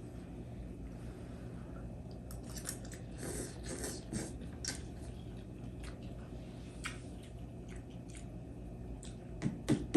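Two people eating instant noodles: scattered wet mouth clicks and smacks of chewing over a steady low hum, busiest a few seconds in. A run of louder knocks starts just before the end.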